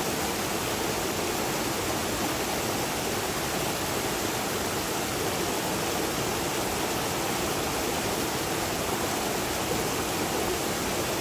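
Steady rush of a stream of fast water cascading over small falls, even and unbroken throughout.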